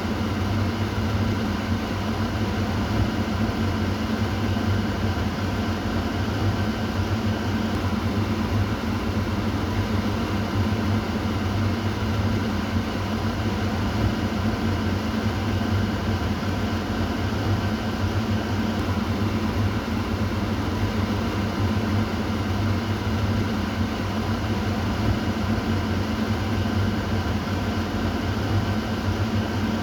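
Kitchen exhaust fan running steadily: an even whir with a low motor hum.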